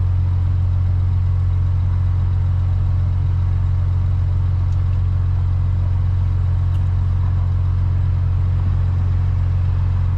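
Steady low drone inside the cabin of a 2006 Dodge Charger R/T, holding even with no change in pitch or level.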